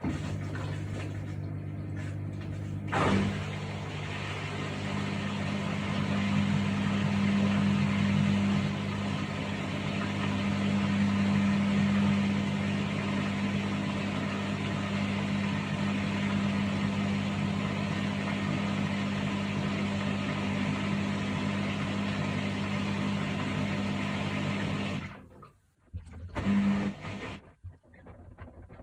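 Haier HW90-BP14636 front-loading washing machine running mid-cycle: a steady low hum with water and drum noise over it, a sharp knock about three seconds in. The hum stops suddenly near the end, followed by a few short clunks.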